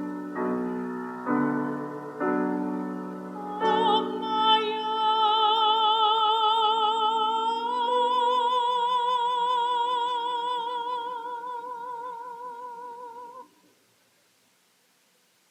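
A soprano singing a long high note with vibrato over piano. The piano plays chords at first; the voice enters about three and a half seconds in, moves slightly higher about eight seconds in, and stops about thirteen seconds in, leaving near silence.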